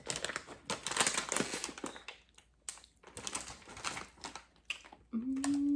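Plastic chip bag crinkling and rustling in irregular spurts as it is handled.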